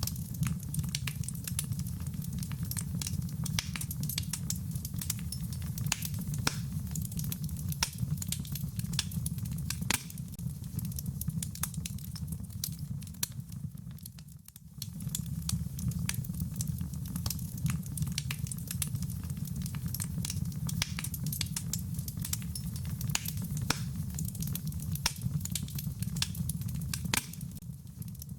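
Wood fire crackling with many sharp pops over a steady low rumble, with rain patter mixed in. The sound thins out briefly around the middle and again near the end.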